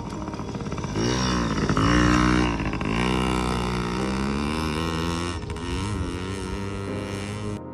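Youth motocross dirt bike engine revving, its pitch dipping and rising a few times about a second in, then running at fairly steady high revs. It cuts off suddenly near the end.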